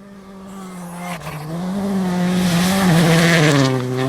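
Rally car engine on a gravel stage getting steadily louder as it approaches, its pitch rising and dipping with the throttle, with a growing hiss of tyres on gravel.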